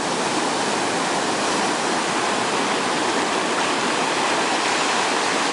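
Ocean surf surging among shoreline rocks: a steady rush of churning seawater.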